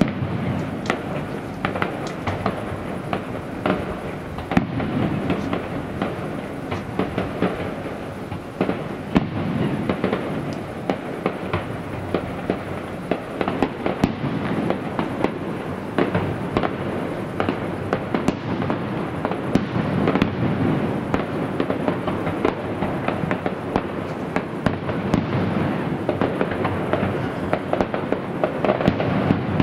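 Fireworks display in full barrage: a continuous run of bangs and crackling reports over a rumbling wash, with no pause.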